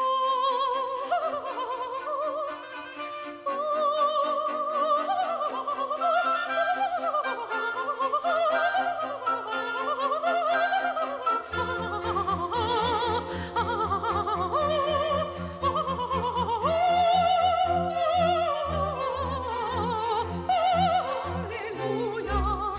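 Operatic soprano singing fast melismatic runs with wide vibrato, accompanied by a classical orchestra; low strings come in with sustained bass notes about halfway through.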